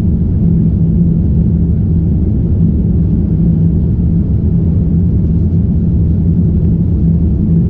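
Boeing 787-9 jet engines and airflow at high power during takeoff, heard from inside the cabin as a steady, loud, low rumble with a steady hum.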